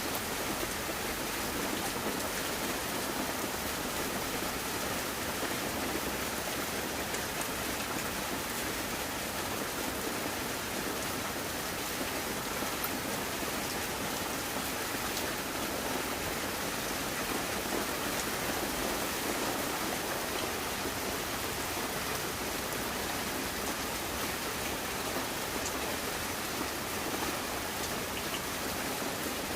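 Steady, even rush of water, from rain or flowing floodwater, unchanging in level with a few faint ticks.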